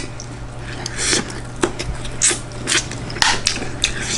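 Close-up eating sounds: chewing and bites of stir-fried chicken with rice, heard as irregular wet clicks and short smacks. A steady low hum runs underneath.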